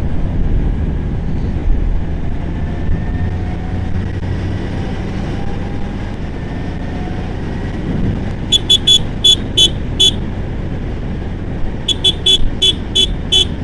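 Steady engine and wind rumble of a Honda CBR650R motorcycle under way. Twice, about two thirds of the way in and again near the end, a horn sounds in a quick run of about six short beeps.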